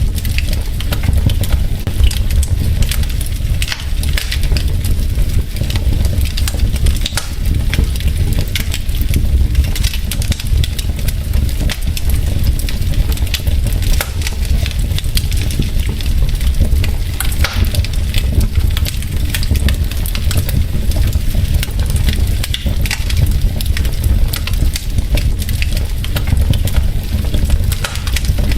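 Wood logs burning in a fireplace: a steady low rumble of flames with frequent sharp crackles and pops.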